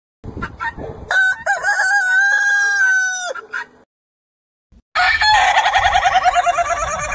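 A rooster crowing: a few short clucks, then one long crow held at a steady pitch for about two seconds. After a second of silence, chickens start rapid, continuous clucking about five seconds in.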